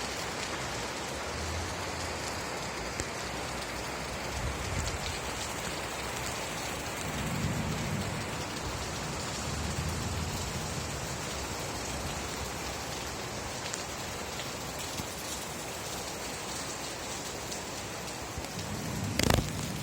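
Steady rain falling, an even hiss of drops on surfaces, with a few soft low rumbles in the middle. Near the end comes one sharp, loud crack, the loudest sound here.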